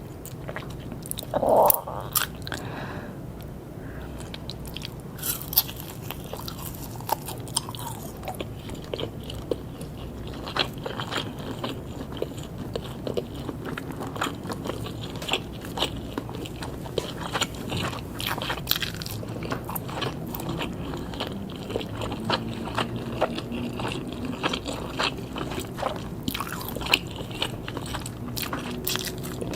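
A person biting and chewing grilled pork and sausage skewers close to the microphone: repeated wet bites and smacks throughout, with one loud brief sound about a second and a half in.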